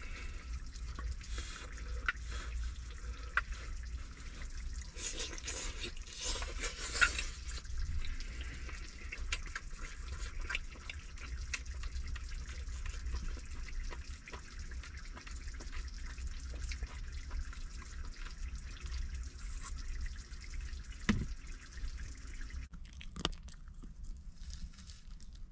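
Food sizzling on the hot top of a heating stove, a steady hiss full of small crackling pops, busier for a couple of seconds early on, over a steady low hum. Two single knocks come near the end.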